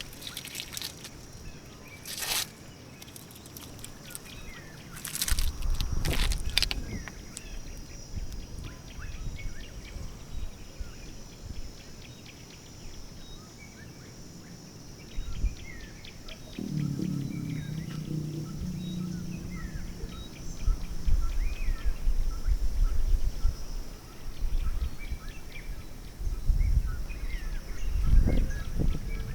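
Small birds chirping with gusts of wind rumbling on the microphone, stronger in the second half. A few sharp knocks come in the first several seconds, and a low steady hum sounds for a few seconds past the middle.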